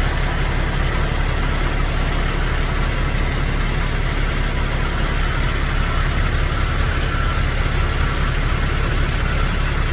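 Heavy truck's diesel engine idling steadily, a low even rumble.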